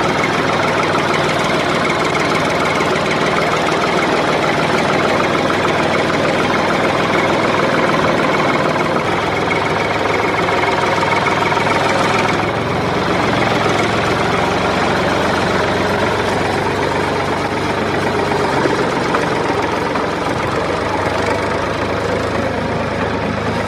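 Small motor of a miniature DIY construction machine running steadily with a fast, even chatter.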